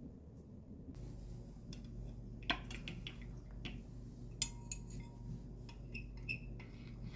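Dishes and utensils clinking in a kitchen: a handful of sharp, separate clinks and knocks, two of them louder, with short ringing tones from a dish or glass near the end.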